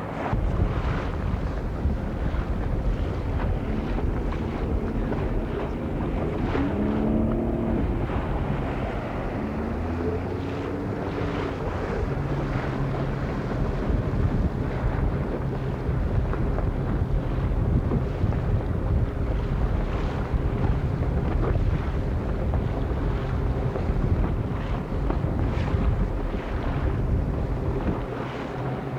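Wind buffeting the microphone aboard a sailboat under way, with water rushing along the hull as a steady rumbling noise. A few faint wavering tones come through in the first half.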